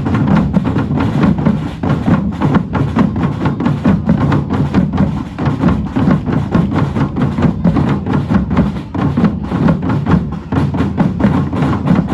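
A drum band playing together: a steady, fast rhythm of deep bass drums under sharper, higher drum strikes, at about four to five strikes a second.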